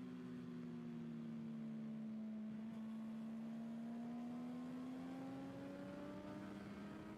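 Motorcycle engine on a race track, its revs easing slightly and then climbing steadily through the second half as the bike accelerates, over wind and road noise.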